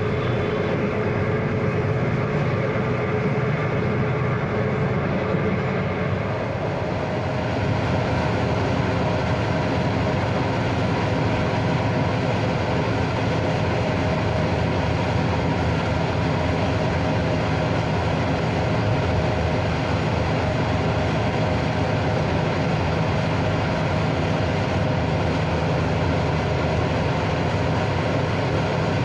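Steady rumble of a train rolling along the rails, heard from inside a moving carriage, with a few faint steady tones under the noise.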